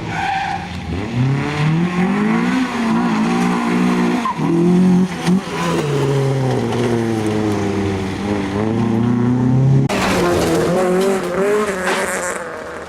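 Honda Civic rally car's engine revving hard, its pitch climbing and dropping again and again through gear changes and lifts. About ten seconds in the sound changes abruptly and the engine note picks up at a different pitch.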